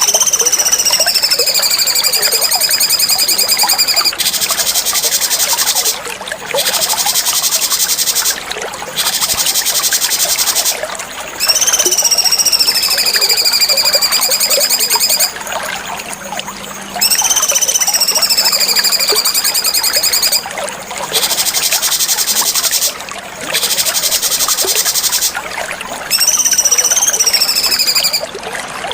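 Cucak cungkok songbird singing: high whistled phrases that dip and then rise in pitch, alternating with rapid buzzy trills, repeated in short phrases every couple of seconds. A steady hiss of trickling water runs underneath.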